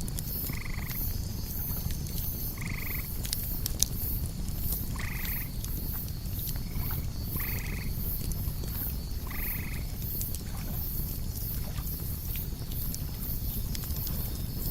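Night ambience over a campfire: a low steady fire rumble with a few sharp crackles, crickets chirping in a fast high pulse over a steady high insect tone. Six short, two-toned animal calls sound through it, croak-like and a second or two apart.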